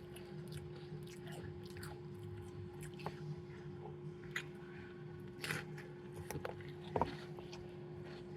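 Someone chewing a sloppy joe sandwich close to the microphone: scattered soft wet smacks and mouth clicks, with a sharper click about seven seconds in, over a steady hum.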